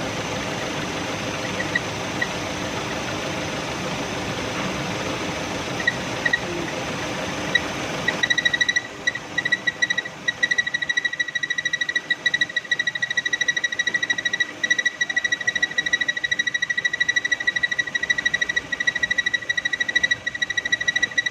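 Car engine running with a high-pitched whistle: at first only short, scattered whistle blips over the engine noise, then after about eight seconds a steady, rapidly fluttering whistle over a quieter background. This is the whistling noise that the shop cured by replacing the PCV valve.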